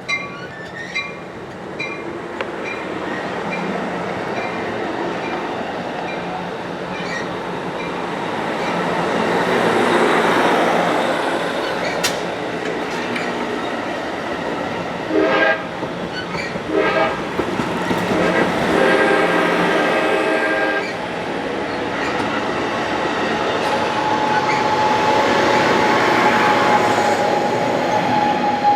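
Passenger train running through on the rails with a swelling rumble, its horn giving two short blasts about halfway through and then a longer chord-like blast; short repeated ringing tones in the first couple of seconds, and a steady whine in the last few seconds.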